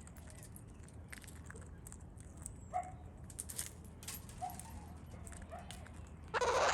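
Wild Australian king parrots feeding: scattered small clicks and taps with a few short, soft calls, then a loud harsh burst near the end.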